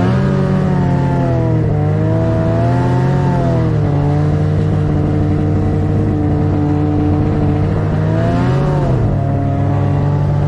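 Snowmobile engine running under way, its pitch rising and falling with the throttle several times, most clearly a swell and dip about eight seconds in.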